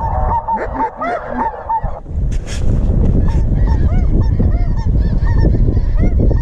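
Flock of snow geese calling, a dense chorus of quick, high yelping honks. About two seconds in, a loud low rumble sets in beneath the calls, which carry on more faintly.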